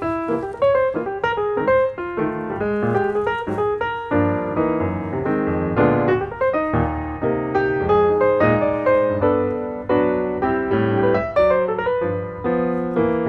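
Background piano music: a steady run of struck piano notes and chords.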